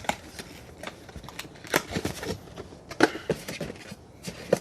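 Irregular clicks and knocks, about half a dozen at uneven intervals, from hands handling the sink's unboxed parts and packaging, such as the drain trap.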